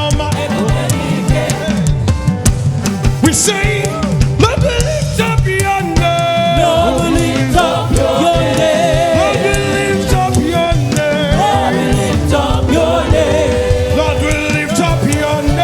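Live gospel praise music: a church choir singing over a band with drums, with several long held notes partway through.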